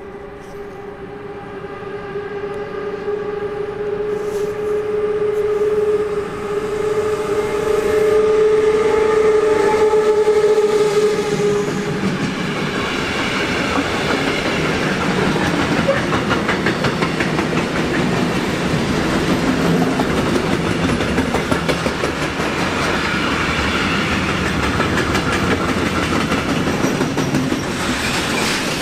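Train approaching with a steady high whine that grows louder for about ten seconds, then passing close by as a loud rush with wheels clattering over the rail joints.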